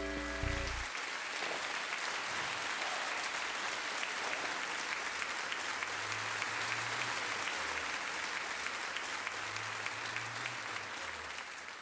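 Audience applauding steadily after a song ends, with the song's last held note dying away in the first second.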